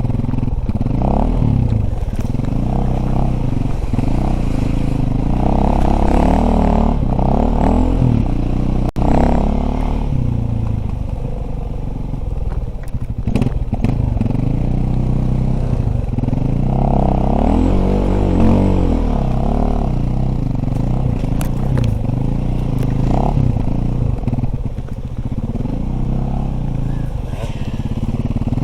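Dirt bike engine running under load as the bike is ridden, its pitch rising and falling over and over as the throttle opens and closes.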